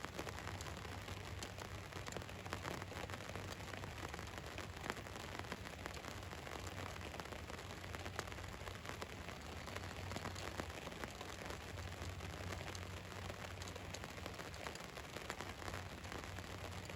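Rain falling on the roof of a van: a steady patter of many drops, with a low, steady hum underneath.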